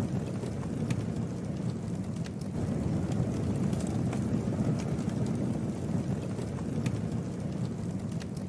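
Campfire burning: a steady low rush of flames with scattered sharp crackles and pops from the wood.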